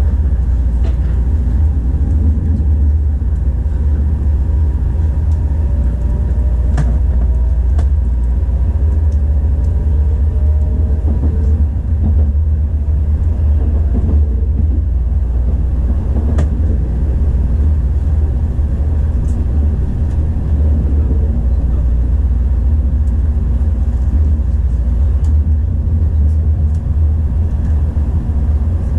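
Steady low running rumble heard inside a Tokaido Shinkansen passenger car as the train pulls away from a station and gathers speed. A faint motor whine slowly rises in pitch partway through, with a few faint clicks.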